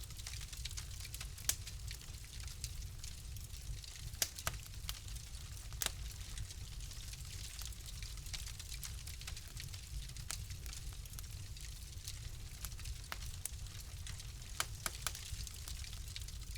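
Wood fire crackling in a fireplace: irregular sharp pops and snaps over a steady low rumble and soft hiss, with a few quick clusters of crackles about four seconds in and again near the end.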